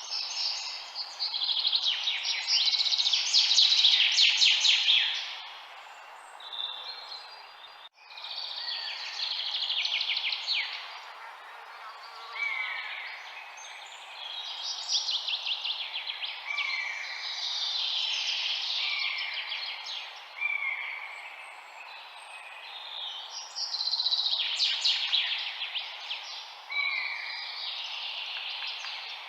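Songbirds singing and chirping in a chorus: rapid trilled phrases a few seconds long and repeated short falling notes, over a steady hiss.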